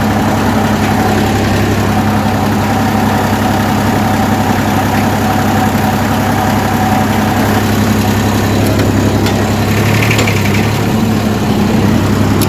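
1990 Massey Ferguson tractor's diesel engine running steadily at a constant speed.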